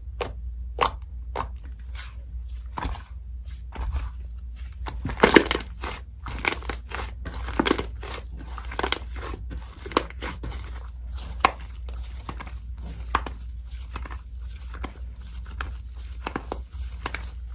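Slime being squeezed and kneaded by hand, making irregular sharp pops and crackles, several a second, over a steady low hum.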